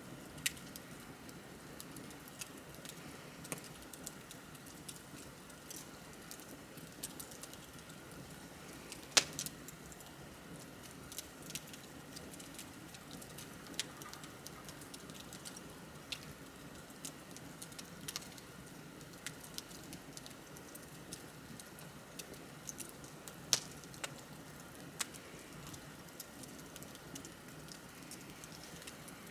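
Wood bonfire crackling: irregular snaps and pops over a soft steady burning hiss, with two sharp, loud pops, one about nine seconds in and one near the three-quarter mark.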